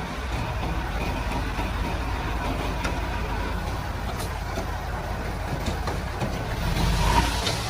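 Komatsu D31-P crawler bulldozer's diesel engine running steadily while the dozer works, swelling louder near the end.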